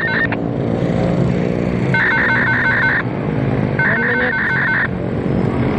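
Electronic railway level-crossing warning bell ringing in rapid high pulses, in bursts of about a second, over the low steady running of a diesel locomotive engine.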